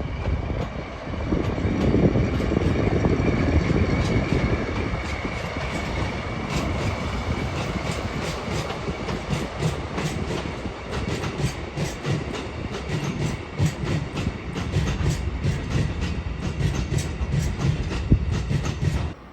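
A train running past at speed, with a steady rumble and wheels clicking rapidly over the rail joints, the clicks thickest in the second half.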